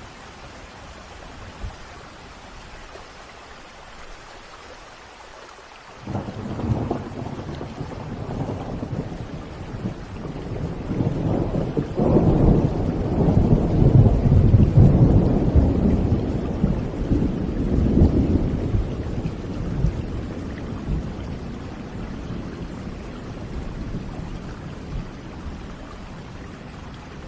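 Steady rain with a long rolling thunderclap. The thunder breaks suddenly about six seconds in, swells to its loudest through the middle, and rumbles away into the rain over the next ten seconds or so.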